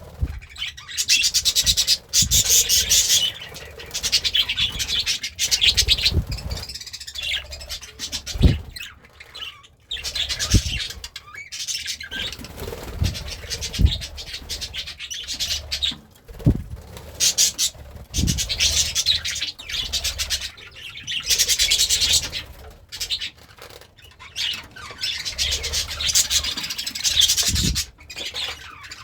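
Budgie chattering and warbling in repeated bursts of fast, scratchy chirps, with short low thumps every few seconds.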